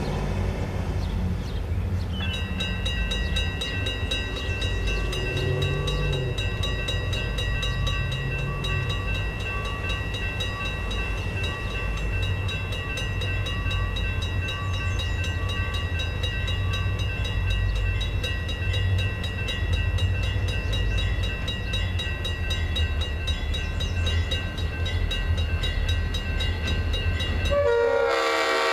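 Freight train running with a heavy, steady diesel rumble, and a steady high-pitched ringing tone held over it for most of the time. A locomotive horn sounds loudly near the end.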